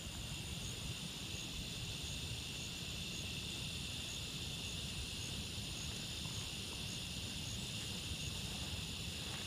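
Steady chorus of insects, a continuous high-pitched buzz, with a fainter chirp above it repeating a little under twice a second and a low rumble underneath.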